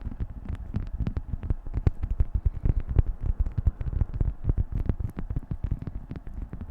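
Beeswax food wrap being crinkled and handled, a dense run of irregular crackles and crinkles.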